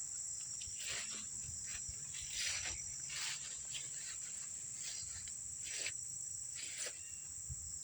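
A steady, high-pitched insect chorus trilling without a break, with about eight brief rustling swishes scattered through it.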